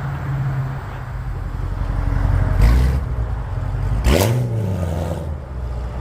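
A car engine running with a low, steady rumble. There is a short hissy burst about two and a half seconds in, then a sharp crack about four seconds in as the engine is revved, its pitch rising and falling back.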